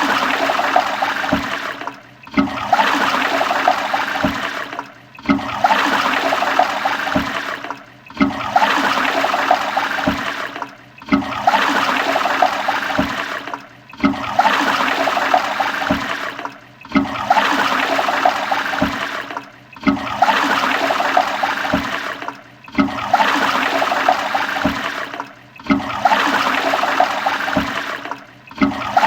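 Toilet flushing: a rush of water that starts suddenly, runs for a couple of seconds and cuts off, repeated about every three seconds as a loop.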